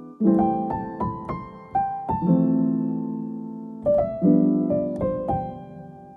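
Background music: a slow, gentle piano piece, soft chords struck every couple of seconds with single melody notes between them, each left to ring and fade.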